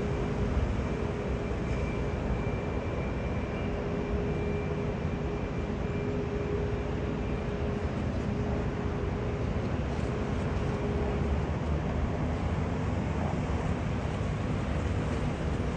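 Steady jet aircraft engine noise: an even rumble with a faint steady whine that fades out about 11 seconds in.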